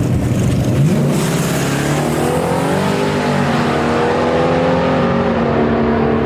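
A truck's engine revving hard as it launches from a standing start about a second in and accelerates away, its pitch climbing, dropping at a gear change and climbing again.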